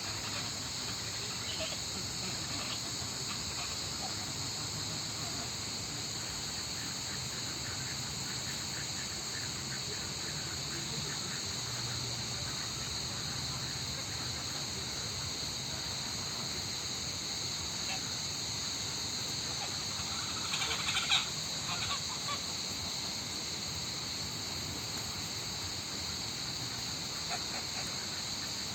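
Steady high-pitched chorus of insects droning, with scattered bird calls over it and a louder burst of bird calls about three quarters of the way through.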